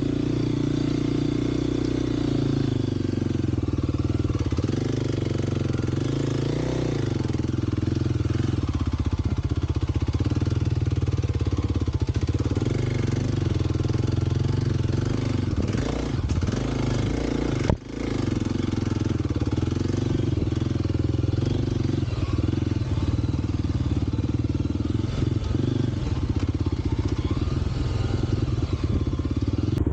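2023 Kawasaki KLX 300's single-cylinder four-stroke engine running steadily while being ridden, its pitch shifting a little with the throttle. The sound drops out for an instant about two-thirds of the way through.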